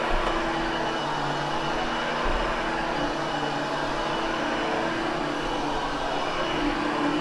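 Hoover HushTone vacuum running steadily over carpet, a constant motor hum with a few faint low bumps as it is pushed along.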